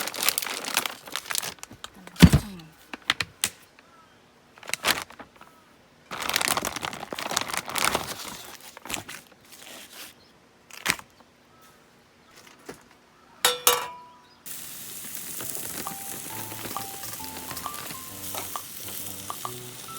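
Bursts of rustling and crinkling with a few knocks of camp gear being handled, the loudest a sharp clank about two seconds in that rings briefly. About two-thirds of the way through this gives way to a steady hiss of rain under background music.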